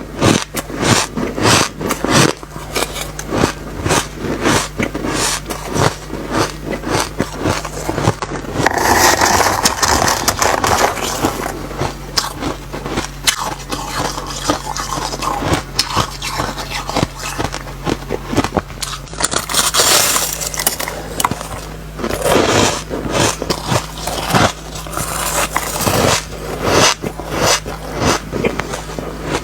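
Close-miked bites and chewing of refrozen ice with a fine, sandy crunch: a rapid, continuous run of small crunches. The crunching changes character twice, about 8 and 19 seconds in, as one clip gives way to the next.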